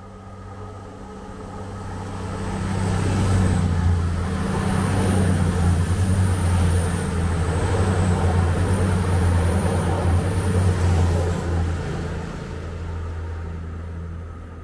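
East Midlands Railway Intercity diesel multiple unit passing close by at speed. Engine drone and wheel-on-rail noise build up over the first few seconds and stay loud for about eight seconds as the carriages go by, with a thin high whine over them. The sound then fades away.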